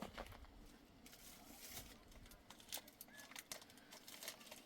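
Near silence: faint ambience with scattered small clicks.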